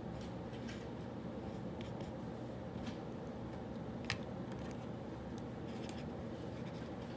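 A pen scratching on paper in short, scattered strokes while working through problems, with one sharp tap about four seconds in, over a steady low room hum.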